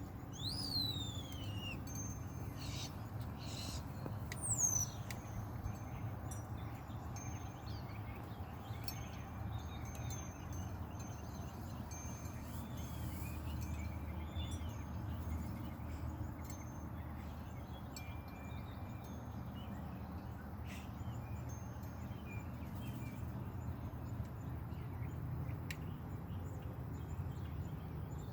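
Wild birds calling outdoors: two high calls sweeping down in pitch near the start, then scattered short chirps and brief whistles, over a steady low background rumble.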